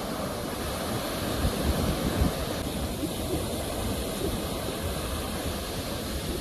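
Ocean surf: waves breaking and washing in a steady low rush of noise, swelling briefly about a second and a half to two seconds in.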